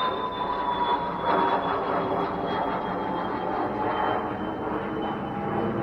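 Engine drone passing at a distance, a steady whine that falls slowly in pitch, over a broad background hiss.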